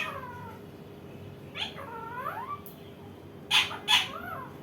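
Indian ringneck parakeet calling in a few short pitch-gliding, meow-like calls, with two loud harsh squawks about three and a half seconds in.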